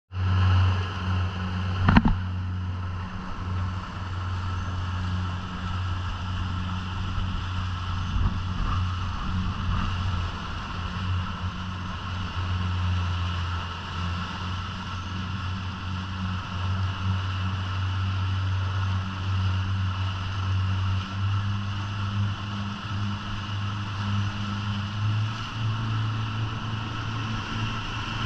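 Boat engine running at a steady pitch, a continuous low drone, with a sharp knock about two seconds in.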